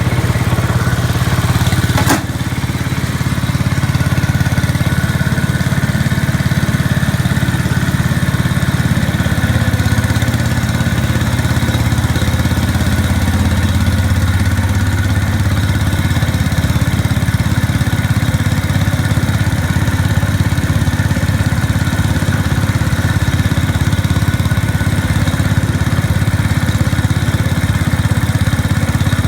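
Engine of a 1969 Hydro 12 garden tractor running steadily after a cold start, having sat unused a long time. A single sharp click comes about two seconds in.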